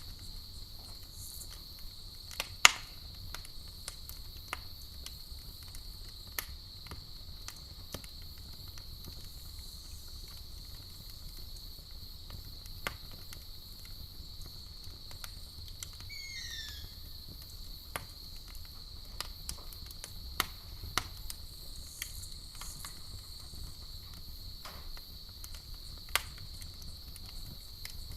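Campfire crackling with scattered sharp pops, one louder pop about three seconds in, over a steady high-pitched chorus of crickets. A brief falling chirp sounds near the middle.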